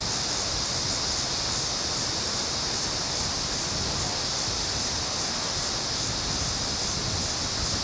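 Floodwater of a swollen creek rushing, a steady, unbroken rush with a strong hiss.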